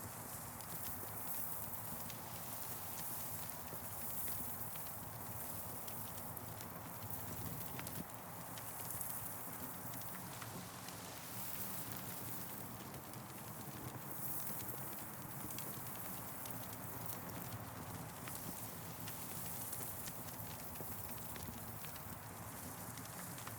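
Wood campfire crackling, with irregular sharp pops scattered through a steady hiss, and a soft high rush like wind in the trees swelling and fading every few seconds.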